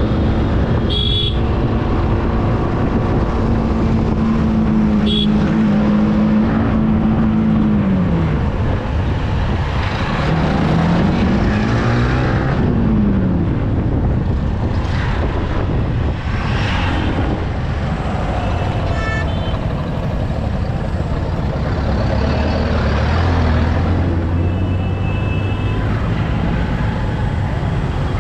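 Yamaha R15 V3's 155 cc single-cylinder engine under way, with heavy wind and road rumble on the mount-camera microphone. The engine note holds steady, drops off about eight seconds in, then climbs and falls again a few seconds later. A few short high-pitched beeps sound near the start, amid passing traffic.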